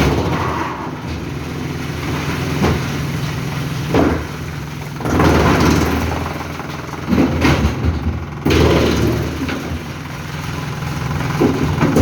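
Forestry wood chipper running, its engine holding a steady low note. Louder, noisier surges rise and fall every second or two.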